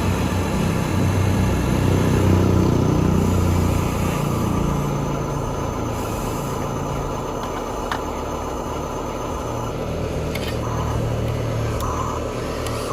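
Truck engine sound that revs up over the first couple of seconds and drops back, then settles to a steady idle.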